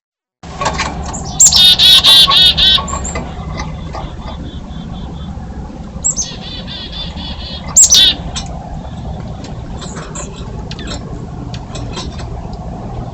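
Small birds at a feeder calling in rapid chattering runs of high notes: a loud burst from about one and a half seconds in, fainter calls later, and another loud burst about eight seconds in. Scattered clicks and a steady low hum run beneath.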